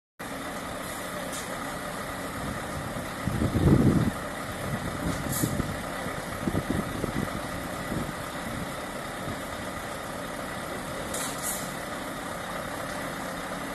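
Scania S730 truck's 16-litre V8 diesel running at idle, with a loud low surge about three and a half seconds in and a few smaller ones after it, then settling back to a steady idle.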